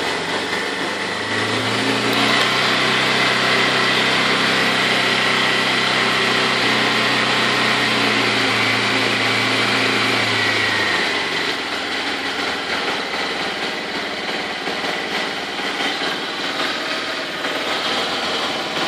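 Honda CBF150's single-cylinder four-stroke engine idling steadily just after a cold start, with a faint high whine over the engine note. About eleven seconds in, the deeper part of the note fades and it runs a little quieter.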